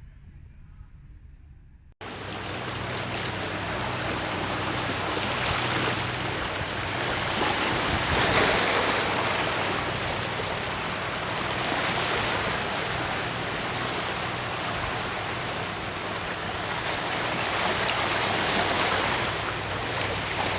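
Water rushing like surf, a steady noise that swells and eases every few seconds, starting abruptly about two seconds in, over a faint low steady hum.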